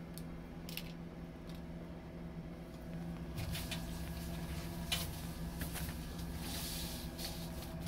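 Wet cloth wiping and squishing against the inside of a refrigerator, with a few light clicks and knocks and a stretch of brisk rubbing near the end, over a steady low hum.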